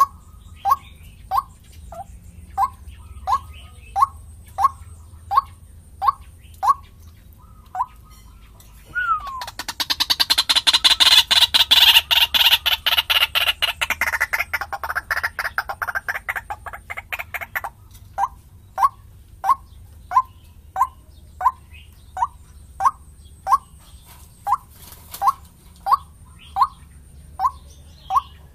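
White-breasted waterhen calls from a lure-call recording. A steady series of short downward-slurred notes comes about one and a half a second. About nine seconds in, a loud, fast chattering outburst breaks in, slows and fades by about eighteen seconds, and then the single notes resume.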